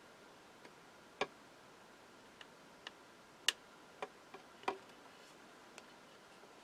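Small hard plastic model-kit parts clicking and tapping as they are handled and pressed together. About eight sharp, irregularly spaced clicks; the loudest comes about three and a half seconds in.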